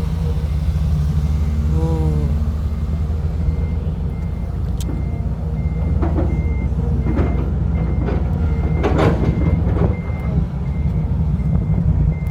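Dump truck reversing alarm beeping about twice a second, starting a few seconds in, over the steady low rumble of a truck engine running. A few sharp knocks come in the second half.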